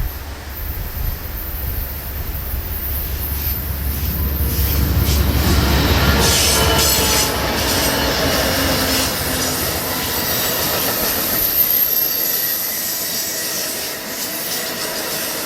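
Amtrak passenger train led by a GE P42 diesel locomotive passing, loudest about six seconds in, its wheels squealing and clicking over the rails. Wind buffets the microphone with a low rumble through the first ten seconds.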